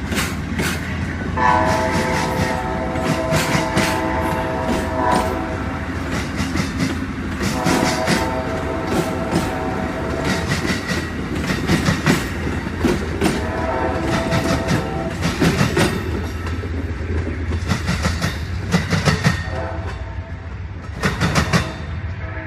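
Amtrak P40DC diesel locomotive passing with its Nathan K5LA chord air horn sounding a series of blasts, the first long, the last starting near the end. Under the horn, wheels clack over rail joints and the train gives a steady low rumble.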